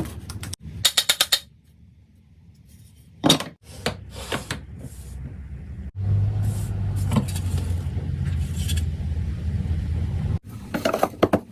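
Workshop sounds: a run of sharp clicks and knocks with some scraping, then a steady low machine hum lasting about four seconds that stops abruptly, then more clicks.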